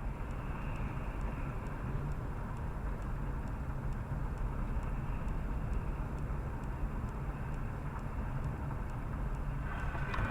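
Steady rumble of a moving car's engine and road noise, as picked up by a dashcam, with a louder burst of noise near the end.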